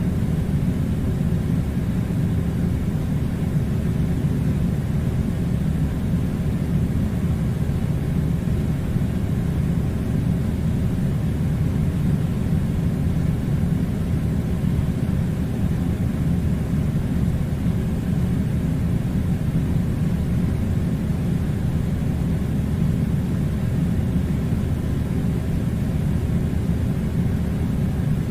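Steady low rumbling drone that stays level and unchanged throughout, with no separate knocks or clicks.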